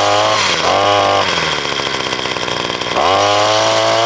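Wild Badger 4-in-1 multitool's small two-stroke gas engine, freshly started, blipped up from idle twice in quick succession, dropping back to a low idle, then held at high revs for about a second near the end.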